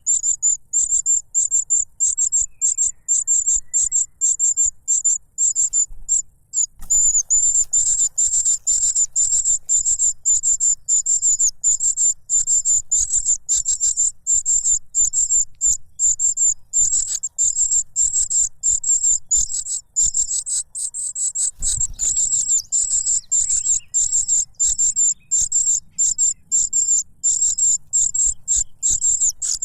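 Cuckoo chick begging for food: a loud, rapid, unbroken string of short, high-pitched shrill calls.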